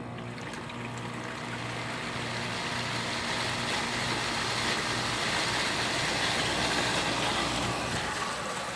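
Frigidaire 5000 BTU window air conditioner starting up: the rotary compressor hums steadily while the fan's rush of air slowly builds in level over several seconds.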